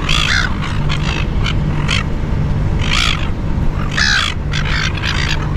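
A flock of silver gulls calling, several harsh squawks close together with the loudest near the start, about three seconds in and about four seconds in, over a steady low hum.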